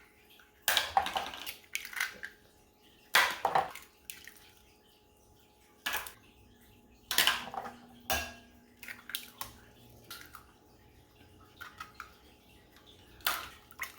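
Eggs being cracked against a bowl, one after another: several sharp knocks and shell cracks a few seconds apart, with light clinks of shell and bowl.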